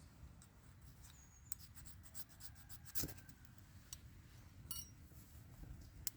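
Faint light scraping and rubbing, with a few short clicks; the sharpest click comes about three seconds in and another near the end.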